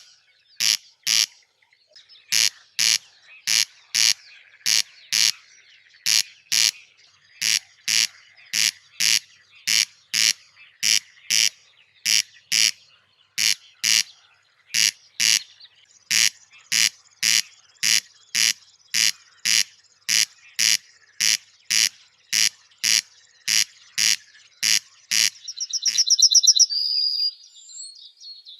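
Caged birds calling: a short, sharp call repeated very regularly about twice a second, then a high, fast trill near the end.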